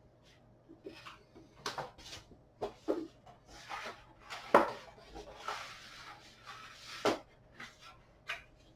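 Hands handling PC case hardware: scattered clicks, knocks and rustling, with the sharpest knock about halfway through and another a couple of seconds before the end.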